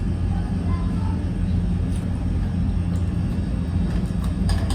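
Steady low mechanical hum, unchanging throughout, with a couple of faint clicks near the end.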